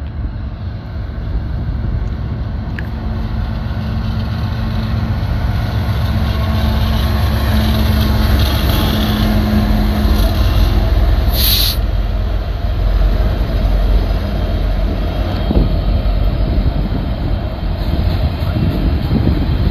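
Union Pacific diesel freight locomotives running as they pull a manifest train past close by, then freight cars rolling over the rails with a steady rumble that grows louder. A short hiss comes about halfway through.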